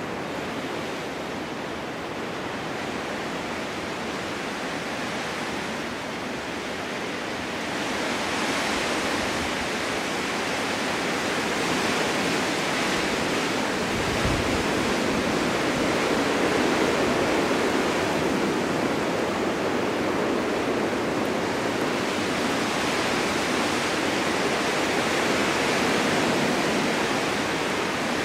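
Blizzard wind rushing steadily, with a gust that swells about a third of the way in and slow surges after it. A brief low thud comes about halfway through.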